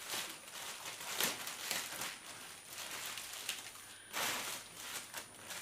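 Cardboard box packaging being handled and pulled open by hand: rustling, scraping and tearing of cardboard and tape, with a louder scrape about four seconds in.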